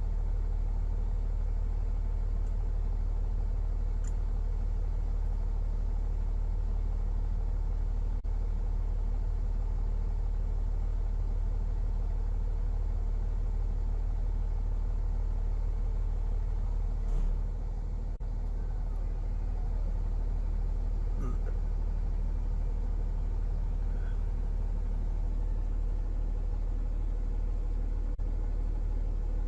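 A car driving: a steady low rumble of engine and road noise, with a brief bump about seventeen seconds in.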